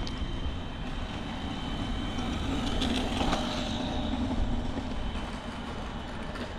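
Scooters rolling past on a paved trail, a low hum that swells around the middle and fades away.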